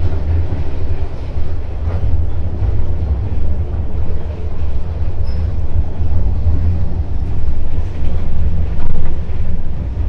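Passenger train carriage running on the rails: a loud, steady low rumble with rattling noise over it, heard from inside the carriage.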